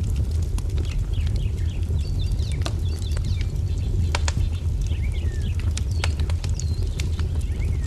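Wood fire crackling, with sharp pops over a steady low rumble, mixed with small songbirds chirping in short calls that swoop down and up in pitch.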